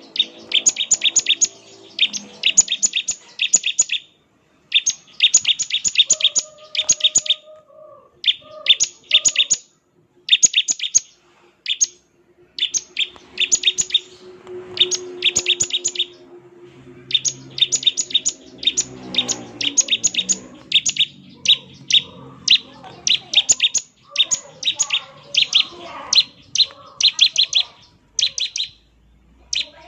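Bar-winged prinia (ciblek) giving its 'ngebren' call: quick runs of sharp, high, evenly spaced notes in bursts of a second or two, separated by short pauses.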